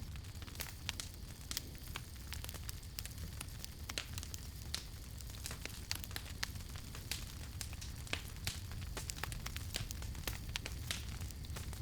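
Wood fire crackling: many sharp pops and snaps at irregular intervals over a steady low rumble and hiss of burning.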